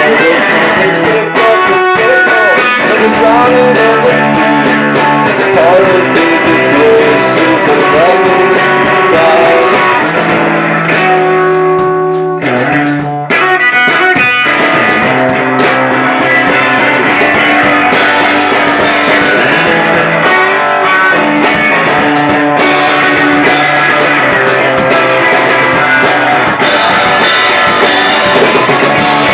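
Live rock band playing an instrumental passage: electric guitar over bass and drums. About halfway through, the drums drop out for a couple of seconds before the full band comes back in.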